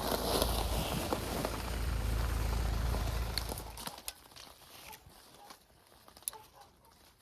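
Strong wind buffeting the microphone: a heavy low rumble with a rushing hiss that cuts off suddenly about four seconds in, leaving quiet with a few small clicks.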